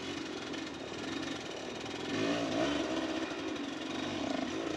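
Dirt bike engines revving on a steep hill climb, the pitch rising and falling repeatedly as the throttle is worked, getting louder about halfway through.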